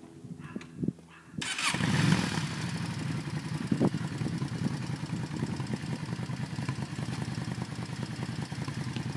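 A few faint clicks, then a 2007 Yamaha motorcycle engine starts about a second and a half in and settles into a steady idle.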